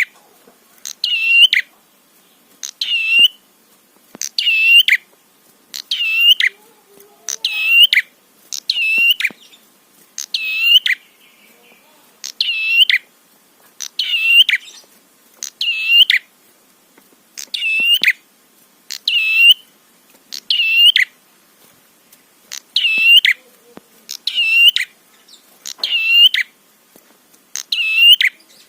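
Prenjak (prinia) calling: a sharp, loud double chirp repeated steadily about every one and a half seconds.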